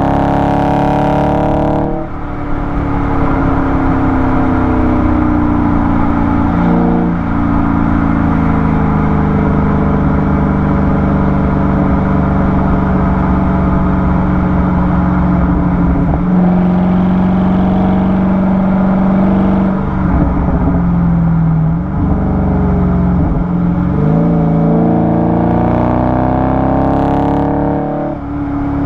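Dodge Charger 392's 6.4-litre HEMI V8 heard through a mic at the exhaust while driving. The revs are high at first and fall sharply about two seconds in. A long steady drone follows that sinks slowly, then the engine climbs through the revs again towards the end before falling sharply once more.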